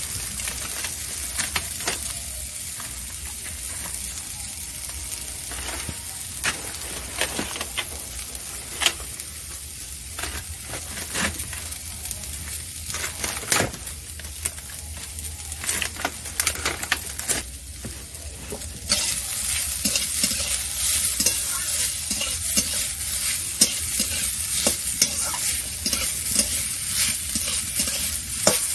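Boiled leafy greens frying in oil in a metal wok: a steady sizzle with the scrape and click of a spatula stirring. The sizzle grows louder about two-thirds of the way through.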